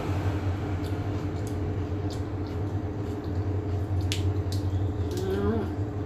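Eating sounds: soft wet chewing and a few sharp little clicks, over a steady low hum.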